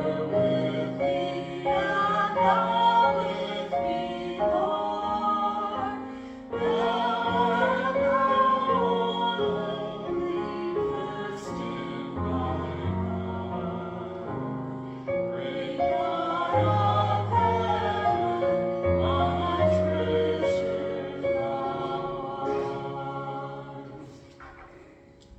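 A slow hymn, sung by several voices over instrumental accompaniment with held chords and a slow bass line. The music fades out on its final chord near the end.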